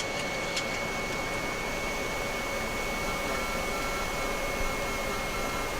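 Steady rushing airflow and engine noise on a Boeing 737 Classic flight deck on final approach, gear down and flaps 30, under a steady high-pitched whine. About halfway through, a faint beep starts repeating in short pulses.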